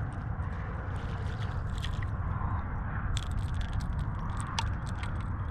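Water lapping and sloshing against a kayak hull, over a low wind rumble on the microphone, with small clicks and taps from about halfway in.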